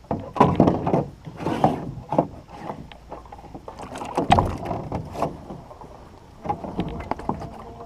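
A war canoe being handled and emptied of water: irregular hollow knocks and thumps against the hull, with a short rush of noise about a second and a half in.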